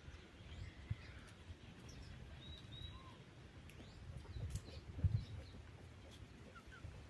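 Small birds chirping faintly, with short high calls and brief rising and falling notes scattered through, over a low rumble with a few dull thuds, the loudest about five seconds in.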